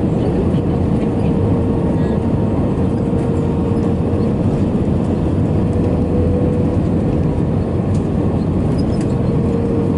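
Steady cabin noise inside an Airbus A320 airliner: a continuous rumble of engines and airflow with a constant hum running through it.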